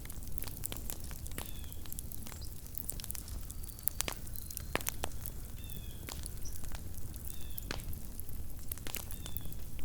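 Campfire of burning wood crackling and popping, with irregular sharp snaps over a low steady background rumble. A short, high, pitched call from some animal comes four times, roughly every two seconds.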